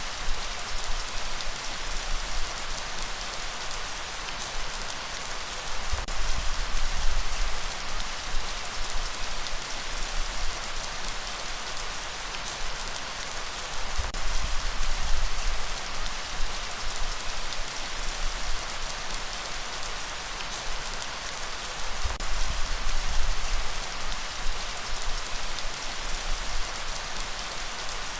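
Steady rain falling, a continuous hiss with scattered drop ticks. A low rumble swells and fades a few times.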